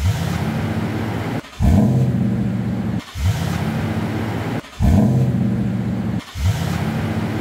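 2008 Toyota Tundra starting from cold through its exhaust, heard about five times in a row: each time a brief rising flare as the engine catches, then steady running at high idle, cut off after about a second and a half.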